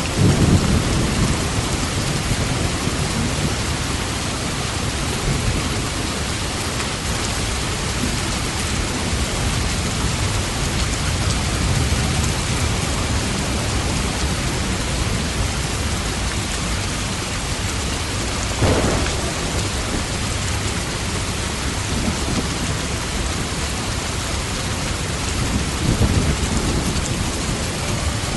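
Steady rain with thunder rumbling low, one louder peal about two-thirds of the way through.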